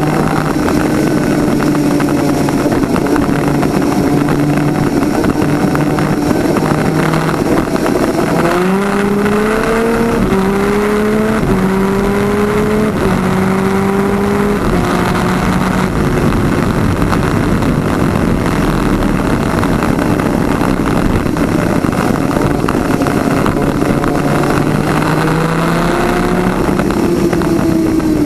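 PVP twin-250cc two-stroke superkart engine running hard over a loud rush of wind. The pitch holds steady, then about a third of the way in it climbs in four short steps with brief breaks between, the kart accelerating up through the gears.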